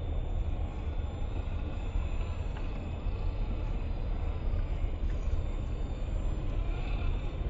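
Wind buffeting the microphone: a steady, uneven low rumble with a noisy hiss above it and a faint steady high whine.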